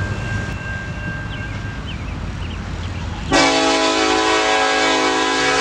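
Diesel locomotive air horn sounding one long, steady blast that starts suddenly about three seconds in, over a low rumble of train engines.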